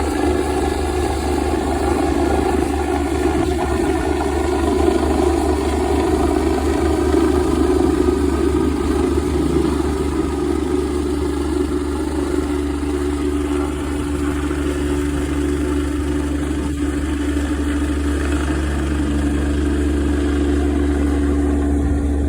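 Medical transport helicopter running steadily: a constant loud drone with a deep steady hum, its higher tones thinning out somewhat about halfway through.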